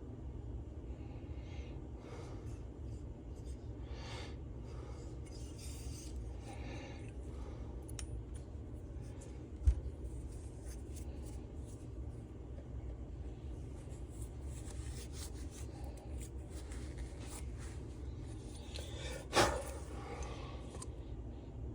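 Faint handling of small engine parts on a workbench: light rubbing and scraping over a steady low hum, with a dull thump about ten seconds in and a sharper clack near the end.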